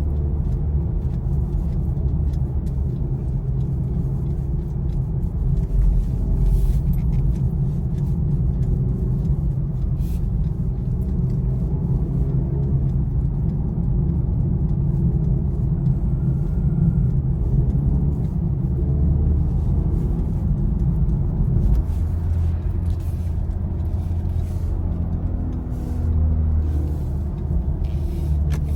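BMW i4 M50 electric car being driven: a steady low rumble of road and tyre noise with no engine note, shifting slightly in level now and then.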